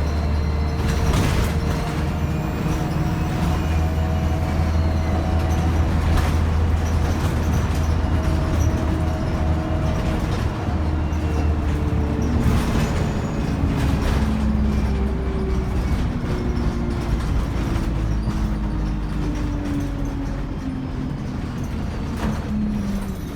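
ADL Enviro 200 single-deck bus under way: a steady diesel drone with the whine of its three-speed Voith automatic gearbox and turbocharger, the whine falling slowly in pitch, with a few knocks from the body.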